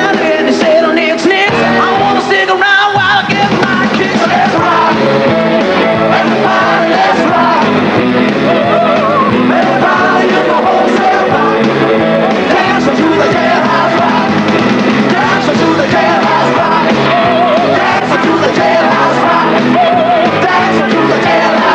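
Live rock and roll band playing loudly with singers and shouted vocals, a full-ensemble finale number.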